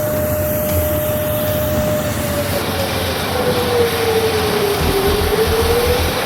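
C-17 Globemaster III's turbofan engines running with a steady roar and a whine that sags in pitch about five seconds in and climbs back.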